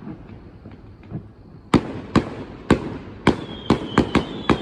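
Fireworks display: after a quieter second and a half with faint pops, sharp bangs come in quickening succession, about eight in three seconds. A thin high whistle starts near the end.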